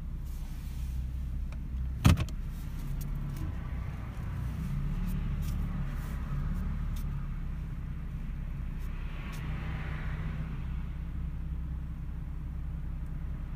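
Car engine running low and steady, heard from inside the cabin while reversing, with one sharp knock about two seconds in.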